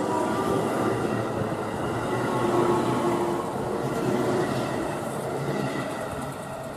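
Electric train pulling out of the station and running past along the rails, its sound fading away near the end.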